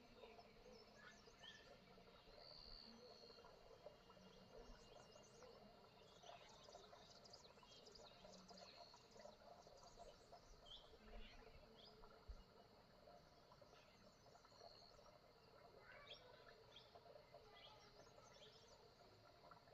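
Faint morning birdsong: many short, scattered chirps from small birds, over a steady high insect trill.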